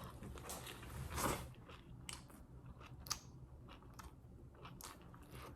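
A person chewing a mouthful of steak wrap close to the microphone: faint, irregular wet smacks and mouth clicks, with one louder breathy sound about a second in.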